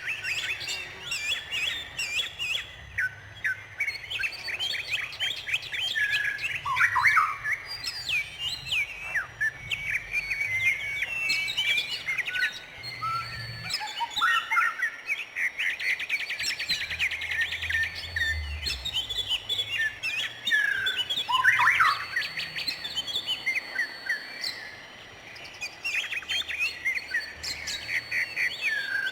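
Several songbirds chirping and singing at once, quick overlapping chirps and whistled notes, with a rapid trill about halfway through.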